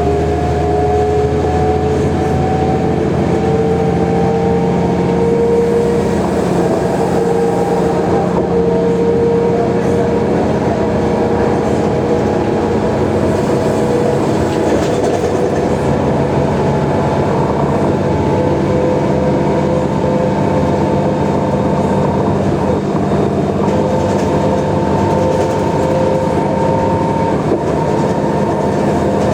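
Mercedes-Benz O345G articulated bus under way: a steady engine drone with a whine that climbs slowly in pitch throughout as the bus gathers speed.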